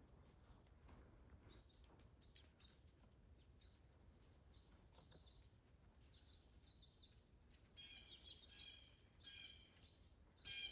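Wild birds calling: faint, short high chirps scattered throughout, then a louder run of harsher calls in the last few seconds.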